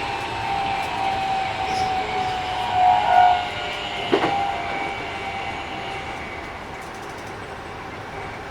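Keikyu 1000 series train running: the Mitsubishi IGBT inverter and traction motors whine in steady tones over wheel and rail noise, with a sharp knock about four seconds in and the sound easing slightly afterwards. This set's running sound is a little louder than other sets'.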